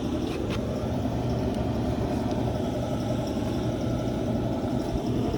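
A motor vehicle engine idling with a steady low hum, with a couple of faint clicks about half a second in.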